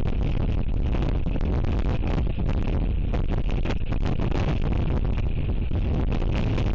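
Strong wind buffeting the nest camera's microphone: a loud, steady rumbling rush with no let-up.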